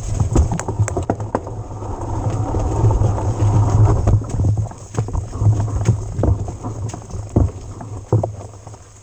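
Electric mountain bike ridden over rough ground: irregular sharp knocks and rattles from the tyres, frame and chain hitting stones and bumps, over a low steady rumble. It grows quieter over the last few seconds.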